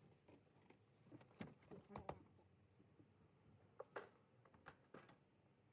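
A few faint, scattered clicks and knocks of objects being handled, the sharpest about one and a half and two seconds in, and again near four seconds.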